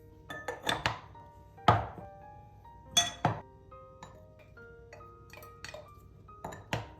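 Containers and jars being handled and set down, giving a series of sharp clinks and knocks, about a dozen in all and loudest around two and three seconds in, over soft background music with held notes.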